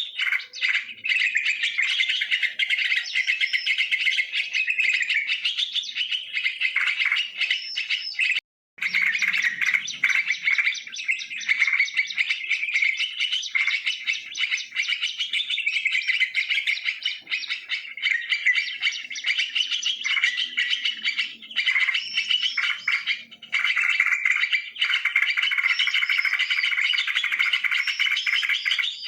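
Yellow-vented bulbuls (trucukan) chirping and chattering in a dense, unbroken chorus, of the kind played as a bird lure; the sound cuts out completely for a moment about eight and a half seconds in.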